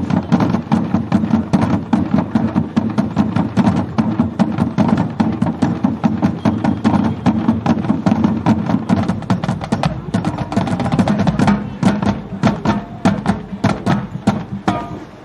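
Marching band playing, with the percussion section's rapid drum and wood-block strikes over a sustained low band of horns. In the last few seconds the strikes thin into separate, spaced hits.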